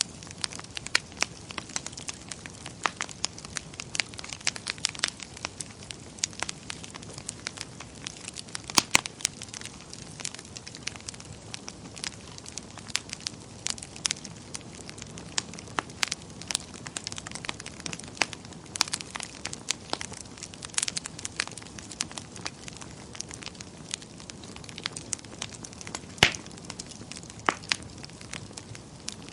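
Wood fire in a fireplace crackling, with irregular sharp pops and snaps over a steady low hiss; two louder pops stand out, one about nine seconds in and one near the end.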